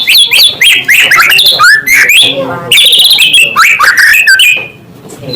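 White-rumped shama (murai batu) singing loudly: a fast, varied run of clear whistles, sliding notes and trills that breaks off near the end.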